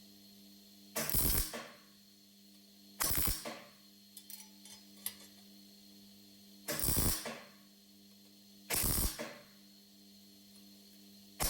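Five short bursts of metalworking on a metal exhaust header, about two seconds apart, over a steady electrical hum.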